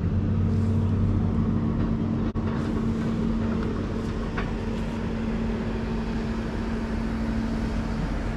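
An engine running steadily at constant speed: an even low hum, with a single short click about two seconds in.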